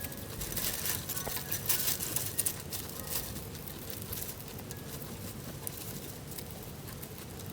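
Pet chinchilla moving about: quick scratchy clicks and patter, busiest in the first couple of seconds, then sparser.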